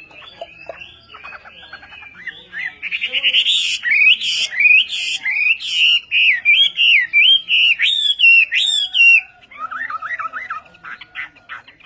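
A songbird singing a fast, varied song of bending whistled phrases, densest in the middle. It drops to a lower run of quick trilled notes near the end.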